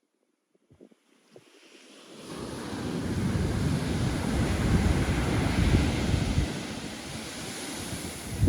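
Pacific Ocean surf, a wave breaking and washing in: it builds from about a second and a half in, is loudest in the middle and eases toward the end, with wind rumbling on the microphone. A short thump right at the end.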